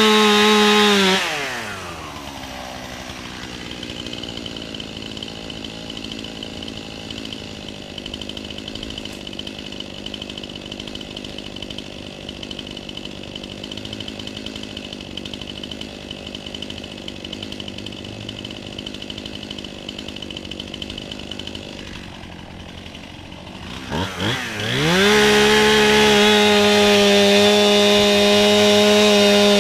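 Chainsaw running at full throttle, dropping to idle about a second in and idling steadily for some twenty seconds, then revving quickly back up to full throttle near the end.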